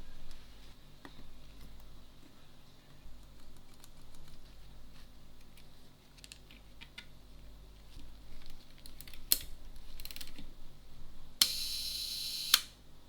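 Small clicks and taps of camera parts and small tools being handled during a bench repair of a film camera. Near the end comes a brighter noise about a second long, closed by a sharp click.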